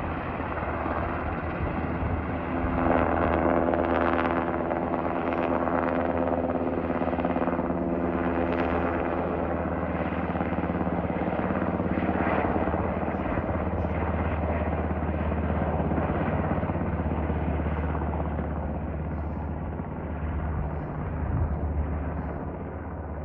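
Firefighting helicopter flying, its rotor and engine running steadily and rising and falling in loudness.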